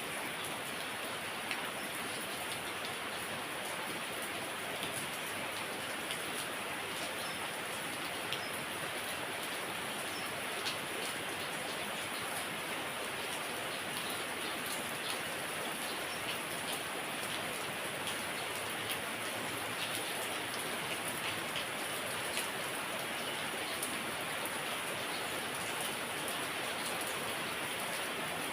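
Heavy rain falling steadily, a constant hiss with scattered sharper drop ticks.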